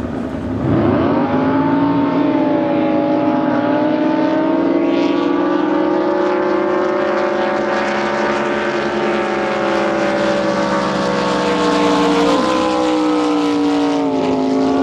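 A race boat's engine running hard at high revs. Its pitch climbs about a second in, holds steady, then eases down near the end.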